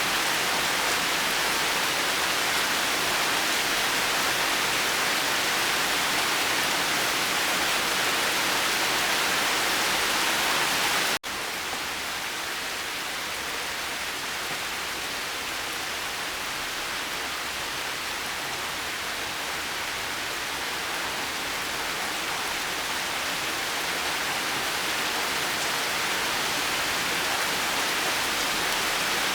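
Steady rain falling, an even hiss. About eleven seconds in it cuts out for an instant and returns a little quieter, then slowly grows louder again.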